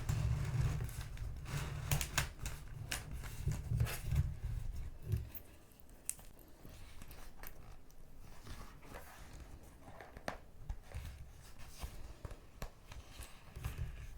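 Paper and stationery being handled close to the microphone: crinkles, rustles and small sharp clicks, with dull bumps against the desk through the first five seconds, then lighter scattered clicks.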